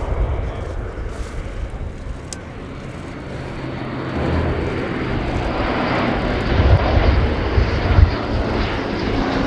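Airbus A400M's four Europrop TP400-D6 turboprop engines droning as the aircraft flies by. The sound grows louder from about halfway through.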